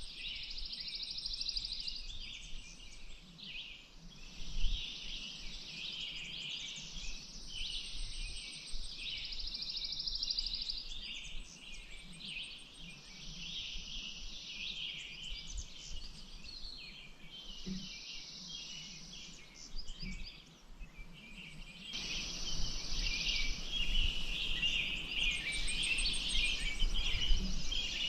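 Songbirds singing and chirping, with a high, fast trill repeating every few seconds over a busy mix of calls. About three-quarters of the way through, a steady broad hiss comes up beneath the birdsong.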